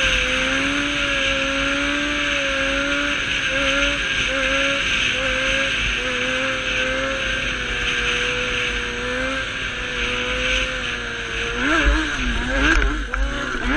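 Motorcycle engine running at a steady, slightly wavering pitch under wind and road noise. About twelve seconds in, the pitch swings quickly up and down as the throttle changes.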